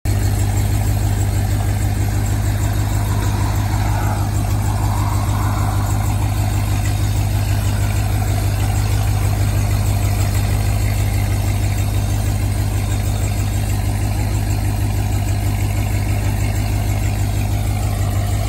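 Jeep Grand Cherokee Trackhawk's supercharged 6.2-litre Hemi V8, built to about 1000 wheel horsepower, idling steadily with an even pulsing beat.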